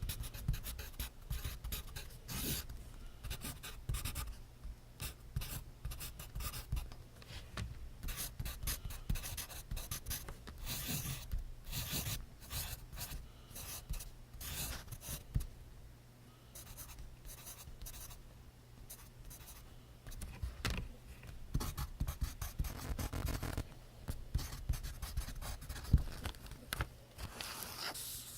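Pencil writing on notebook paper: quick, irregular scratchy strokes that grow fainter for a few seconds past the middle.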